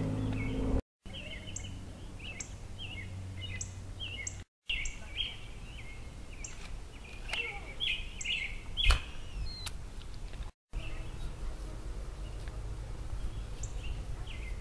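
Birds chirping in short, repeated calls over a low steady background rumble. The sound cuts out briefly three times, and there is a sharp click about nine seconds in.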